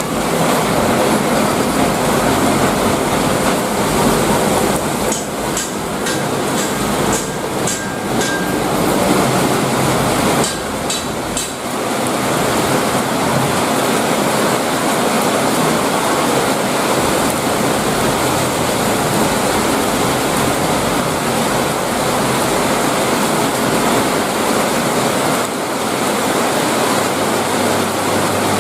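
Heavy tropical rain pouring down as a loud, steady, dense hiss, easing slightly for a moment or two about a third of the way in.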